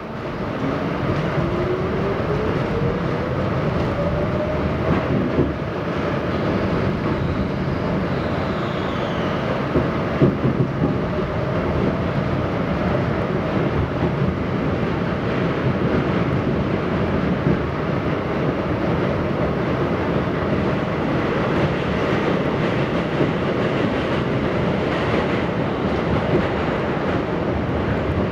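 R68 subway train's traction motors whining, rising in pitch over the first few seconds as the train pulls away. Underneath is the steady rumble and clatter of the wheels on the rails, heard from inside the car.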